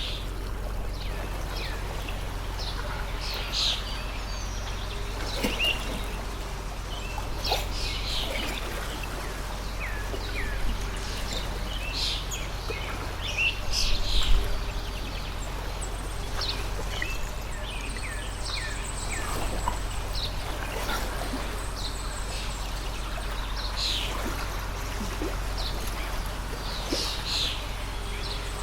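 Water in a small stream trickling steadily while many small birds chirp in quick, short calls throughout. A brief low thump about halfway through is the loudest moment.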